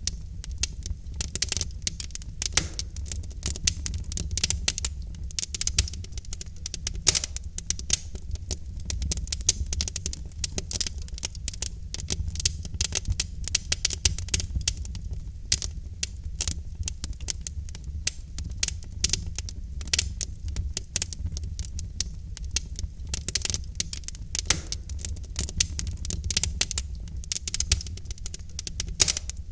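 Burning logs in a fireplace crackling and popping: many irregular sharp snaps over a steady low rumble of the fire.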